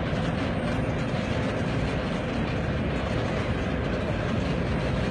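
Steady mechanical rumble with a faint steady hum: the running noise of aircraft and ground equipment on an airport apron.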